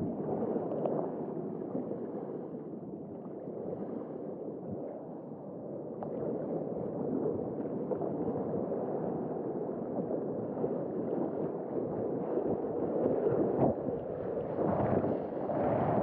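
Sea water rushing and sloshing around a waveski in the surf, swelling louder over the last few seconds.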